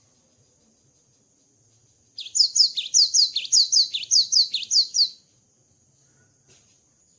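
Cinereous tit singing: a rapid run of about a dozen sharp, falling whistled notes, starting about two seconds in and lasting about three seconds. A faint steady high-pitched whine runs underneath.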